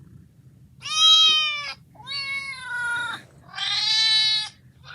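A cat meowing three times, each meow drawn out for about a second.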